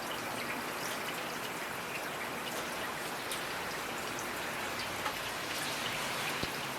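Steady rainfall with raindrops pattering on a surface, a dense even hiss sprinkled with small drop ticks.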